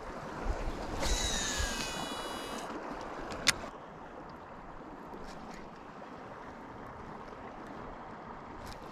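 River water running steadily, with a brief high-pitched whirring tone about a second in and a sharp click midway.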